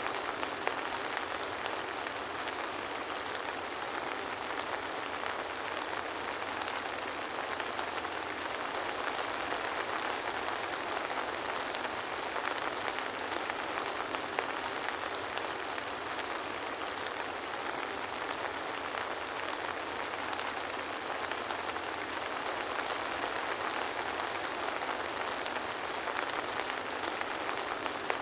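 Steady soft rain falling, a dense even patter of drops with no thunder.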